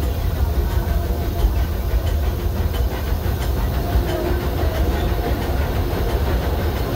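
Disneyland Railroad train, the Ernest S. Marsh #4 steam locomotive hauling the Excursion 3 car, running along the track, heard from aboard. A steady low rumble of the moving train, with light clicks of the wheels over the rails.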